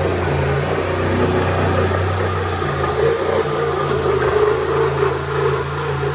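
An electric power tool's motor running steadily, with its pitch and load dropping and picking up again every second or so.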